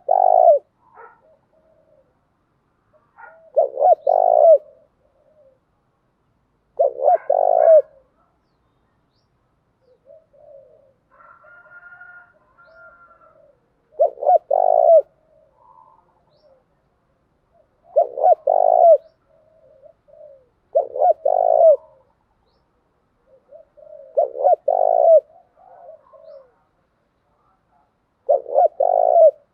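Spotted dove cooing in short phrases of several pulsed notes, about eight phrases in all, repeated every few seconds as a lure call. A fainter, higher bird call comes between two phrases near the middle.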